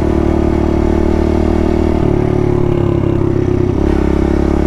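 Kawasaki KLX110 pit bike's small single-cylinder four-stroke engine running steadily at riding speed on the highway. Its note changes about two seconds in and settles back near the end.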